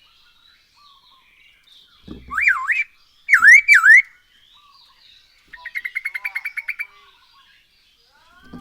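A poksay hongkong laughingthrush singing loud, clear whistles. A few notes swoop down and back up, then comes a quick run of about ten short chirps a second lasting over a second, and a short call near the end.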